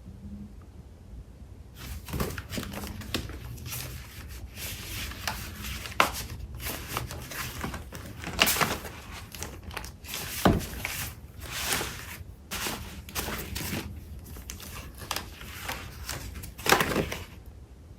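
Paper crafting supplies being shuffled and handled: papers and packaging rustling and crinkling, with sharp crackles and louder rustles now and then, starting about two seconds in and dying down near the end.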